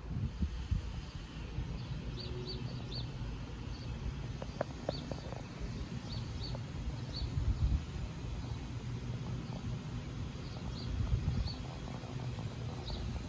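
Small birds chirping in short high notes, in little runs a second or two apart, over a steady low rumbling noise.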